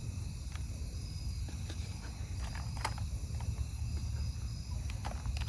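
Insects chirping steadily at dusk over a low steady rumble, with a few soft clicks and rustles as nacho ingredients are layered into a cast iron Dutch oven.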